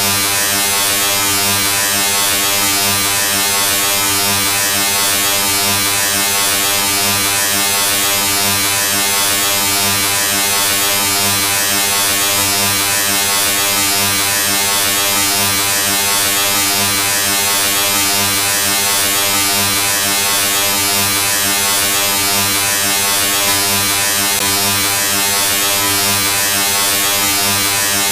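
Steady electric buzz: a low, even drone with many overtones under a bright hiss. It holds constant level and pitch with no change or break.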